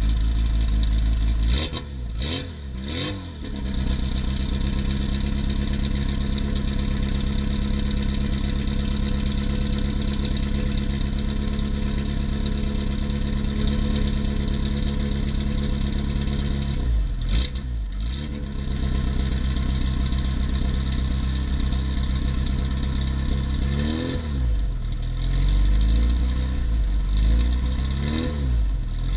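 Classic Morris Mini Cooper S Sprint's four-cylinder engine idling steadily through its exhaust, blipped up and back down a couple of times about two seconds in, once around the middle, and several times in quick succession near the end.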